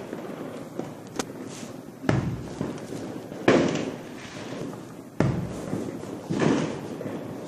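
Fireworks going off: four loud bangs, one to two seconds apart, each dying away before the next.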